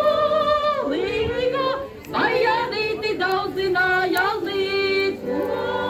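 A group of women singing together in unison and harmony, holding long drawn-out notes with short breaks between phrases.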